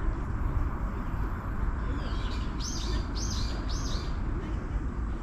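A bird calling, a quick series of about three short arched notes about two seconds in, over a steady low rumble.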